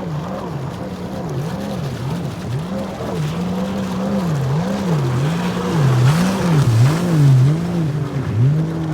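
Supercharged Sea-Doo 300 jet ski engine running at low speed, its pitch rising and falling again and again, a little more than once a second. A louder rushing noise comes in around six to seven seconds in.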